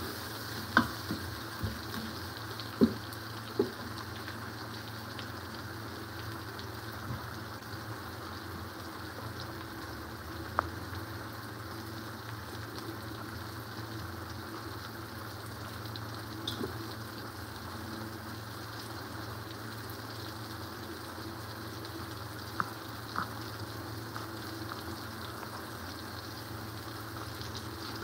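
Tomatoes and onions sizzling steadily in hot oil in an aluminium pressure-cooker pot as the tomatoes soften and their juice cooks off. A few short knocks of a wooden spatula against the pot are heard in the first few seconds and again near the middle and about two-thirds through.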